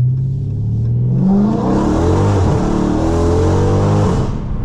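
Dodge Charger Scat Pack's 392 HEMI V8, run through catless mid-pipes and a straight-piped race exhaust with no mufflers or resonators, accelerating hard: the note climbs in pitch from about a second in, drops briefly at a gear change, climbs again, and falls away as the throttle is let off near the end.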